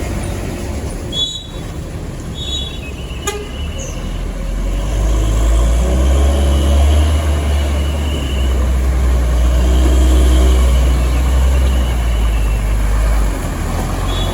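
Heavy trucks passing with a deep engine rumble that swells to its loudest in the middle and drops back near the end. Vehicle horns toot twice in short high beeps in the first few seconds, and longer horn tones sound over the traffic.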